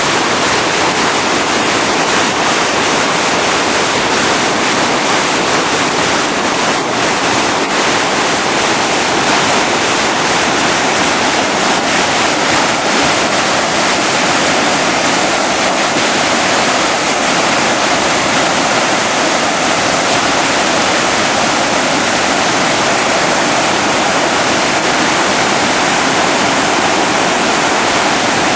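Floodwater pouring over a dam spillway in a loud, steady rush, the spillway running at capacity and overtopping its banks.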